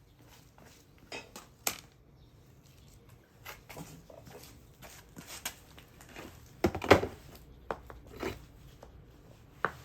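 Wood fire crackling, with irregular sharp pops and snaps; the loudest cluster of pops comes about seven seconds in.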